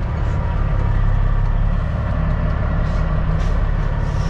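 Semi truck's diesel engine running steadily at low speed, a constant low rumble.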